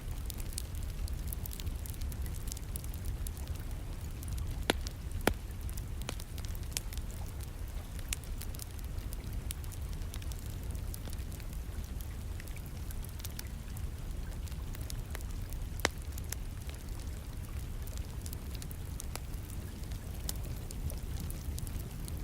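Wood fire crackling in a fireplace, with many small sharp pops and a few louder ones, over a steady rain hiss and a low rumble.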